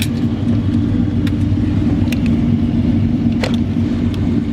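Pickup truck engine idling steadily, with a few light clicks over it.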